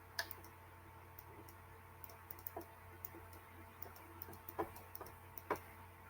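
Faint, irregular clicks and taps, a few of them louder, over a steady low electrical hum.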